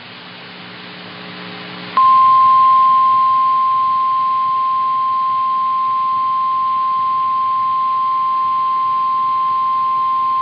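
NOAA Weather Radio warning alarm tone: one steady, high, pure tone near 1050 Hz that begins about two seconds in, after a couple of seconds of faint radio hiss and hum. It is the alert that a warning broadcast, here a tornado warning, is about to follow.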